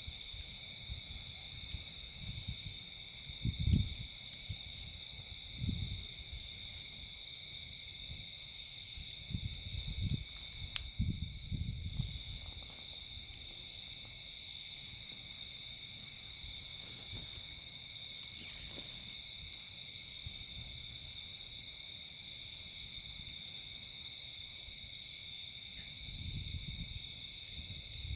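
Steady chorus of insects such as crickets, with a few low rumbles and a single sharp pop about eleven seconds in.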